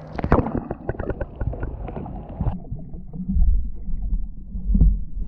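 Handling noise in a plastic fishing kayak: a quick run of knocks and clatter against the hull, then two low rumbling swells of water sloshing and wind on the microphone near the end.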